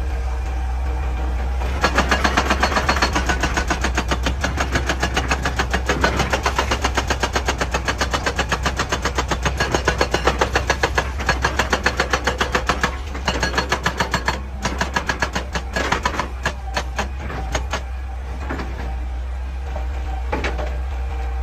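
Hydraulic breaker on an excavator hammering rock in rapid, even blows, several a second, over the steady drone of the machine's engine. The hammering starts about two seconds in, turns stop-start in its last few seconds and stops near the end.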